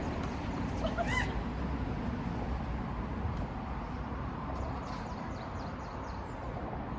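A single short bird call about a second in, over a steady low background rumble, with a few faint sharp clicks.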